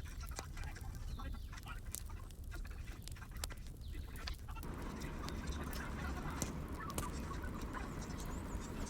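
Wood fire crackling in a fireplace: irregular sharp pops and snaps over a steady low rumble, growing denser about halfway through.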